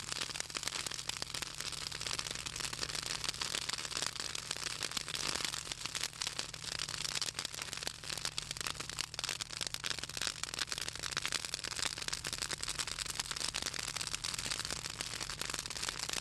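Southern magnolia branches burning in a bonfire, crackling and popping continuously with dense rapid snaps; the oil in the wood makes them crackle.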